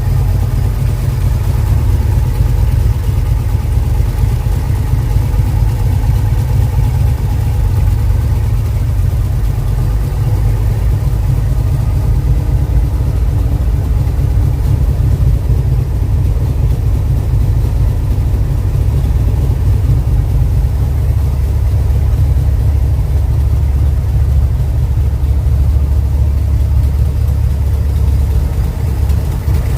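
Vehicle engine idling steadily with a loud low rumble, free of squeaking: the squeak has been fixed. The rumble grows heavier for several seconds past the middle.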